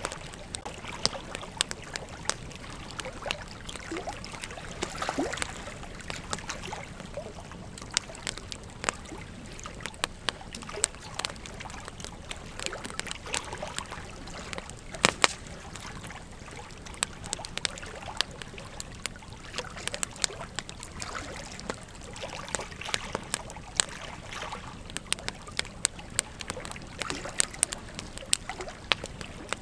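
Campfire burning: wood crackling with irregular sharp pops over a steady low hiss, the loudest pop about halfway through.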